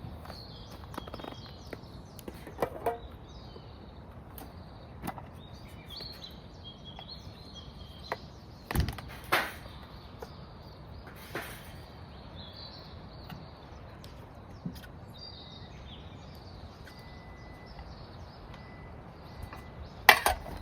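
Small birds chirping and singing steadily in the background, with scattered knocks and clatters, loudest about nine seconds in and again at the very end.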